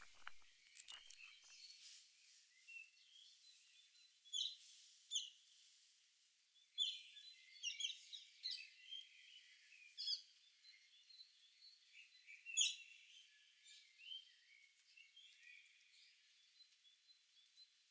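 Faint birds chirping and calling in short, sharp, high notes, scattered irregularly, with a few louder chirps now and then. The sound is thin, with all low sound cut away.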